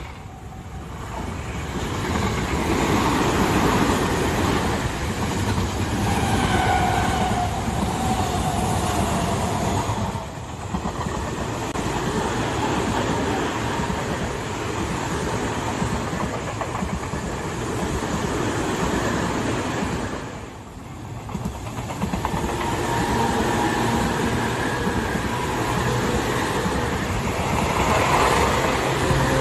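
Tobu Tojo Line electric commuter trains passing at close range, their wheels running over the rails with a faint electric motor whine above the noise. The sound dips briefly twice, about ten and twenty seconds in.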